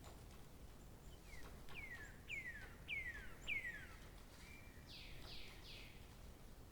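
A bird singing: a run of five whistled notes, each sliding down in pitch and each louder than the last, then a short steady note and three quicker falling notes near the end, over faint outdoor background noise.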